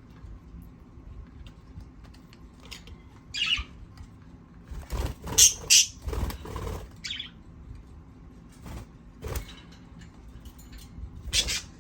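Pet birds in their cage, short chirps and scattered bursts of flapping and scuffling, the loudest flurry about five seconds in.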